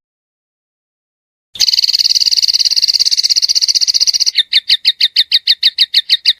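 An animal call from a bird-song tutoring recording. After about a second and a half of silence, a fast high buzzing trill starts suddenly. It then breaks into evenly spaced sharp pulsed notes, about six a second.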